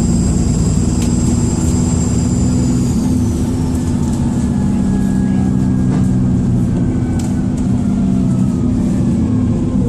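Turbocharger whistle from a Dennis Trident II / Enviro400 double-deck bus's diesel engine, heard on board over the engine's steady drone. A high thin whistle holds for about three seconds and then falls away, and a lower whine slowly drops in pitch through the rest.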